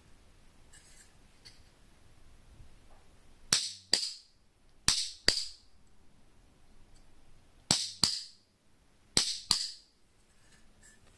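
Tin-plate cicada clicker toy (semikachi) clicked four times, each time a pair of sharp, loud metallic clicks: the thin steel strip snapping over as it is pressed with a fingertip, then snapping back as it is let go.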